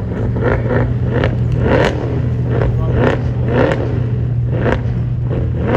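A car engine revved hard in repeated quick blips, its pitch rising and falling about once or twice a second over a steady low engine drone.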